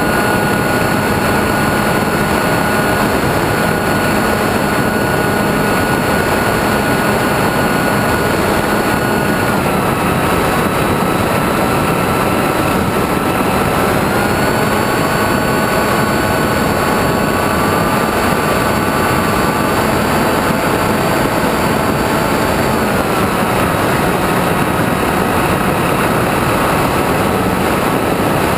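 Electric motor and propeller of an RC trainer plane, heard from on board with wind rushing past, running steadily in flight. Its whine steps down in pitch about ten seconds in, rises again about four seconds later, and drops near the end as the throttle changes.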